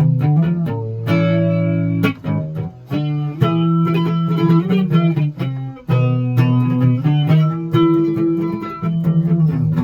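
Music played on plucked guitar, with a bass line under a melody of notes that change about every half second.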